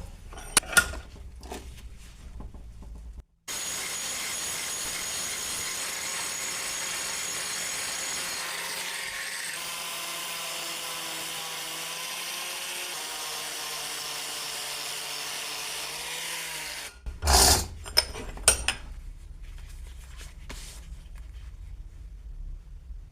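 A power tool running steadily for about thirteen seconds with a steady hum and a hiss of cutting, its pitch shifting slightly partway through, then stopping abruptly. Clicks and knocks of handling the work come before it, and a few loud knocks come after it.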